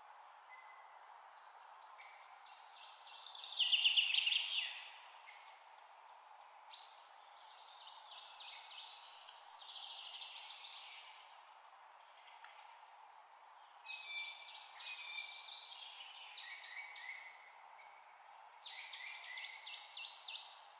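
A songbird singing four phrases of quick, repeated high notes, each a few seconds long, the first the loudest. Under it runs a steady low hiss.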